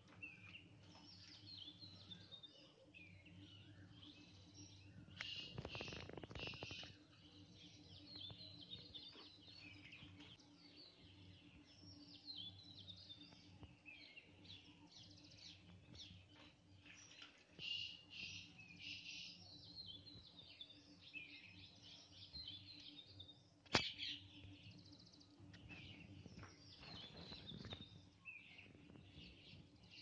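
Birds chirping and singing faintly, a near-continuous run of short high calls. A brief rustling noise comes about six seconds in, and a single sharp click near the end.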